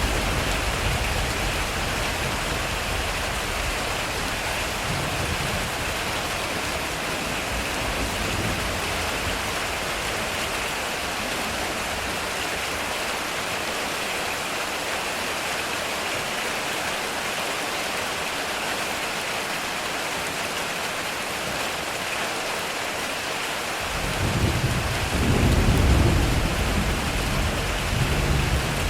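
Heavy rain drumming steadily on a metal roof during a thunderstorm. A low roll of thunder fades away over the first several seconds, and a new roll of thunder breaks in suddenly near the end and swells.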